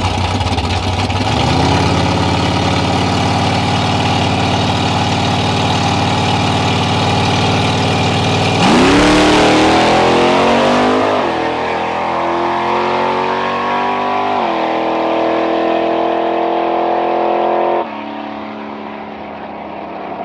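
Drag car at the start line, its engine held at raised revs, then launching about eight and a half seconds in. The engine note climbs through the gears, with two shifts, growing fainter and duller as the car runs away down the strip.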